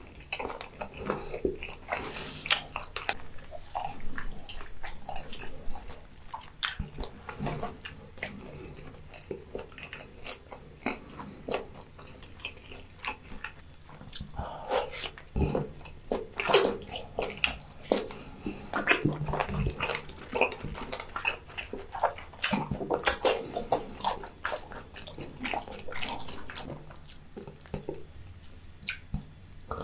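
Close-miked wet chewing and biting: a person eating, with many irregular sharp smacks and clicks of the mouth and food.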